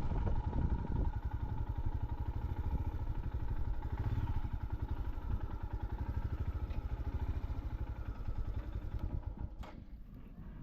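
Harley-Davidson motorcycle's V-twin engine running with a fast, pulsing beat, growing fainter toward the end.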